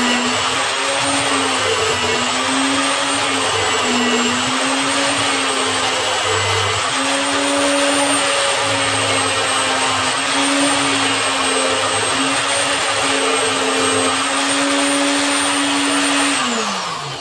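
Electric power tool motor running at high speed with a slightly wavering pitch, then switched off and spinning down with a falling whine near the end.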